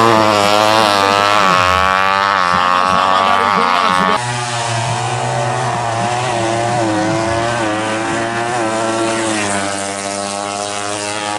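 Tuned 200cc four-stroke underbone drag bike engines revving, the pitch rising and falling in repeated blips over a steady lower engine note. The sound changes abruptly about four seconds in, then continues slightly quieter.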